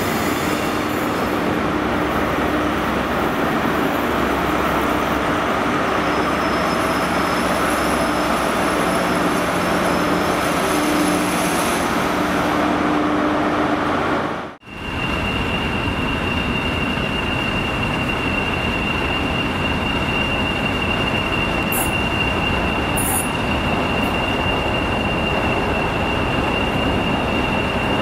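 A GWR High Speed Train's coaches and trailing class 43 power car rolling past at close range, a steady rumble of wheels and diesel running. After a sudden cut about halfway through, a CrossCountry HST approaches on curving track with a steady high-pitched wheel squeal.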